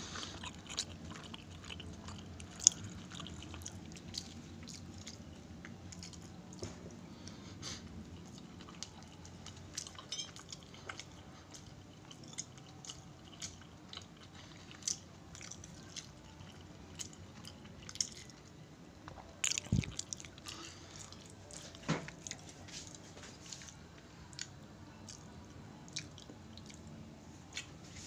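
Faint close-up mouth sounds of a person chewing cassava cake with sweet coconut (bukayo) filling: many small scattered clicks, with a few sharper taps about twenty seconds in.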